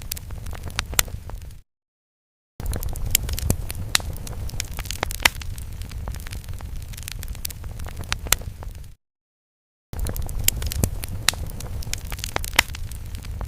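Crackling fire sound effect: a steady low rumble with irregular sharp pops and crackles. It cuts to dead silence for about a second twice, where the loop restarts.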